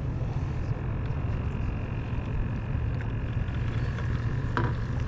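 A small boat's motor running steadily, a low rumble with a faint thin whine over it.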